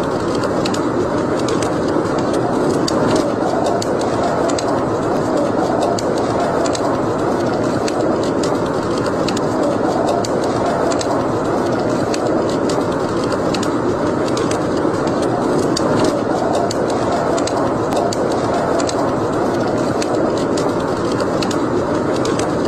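Wood fire burning in a fireplace: a steady rushing burn with frequent, irregular sharp crackles and pops.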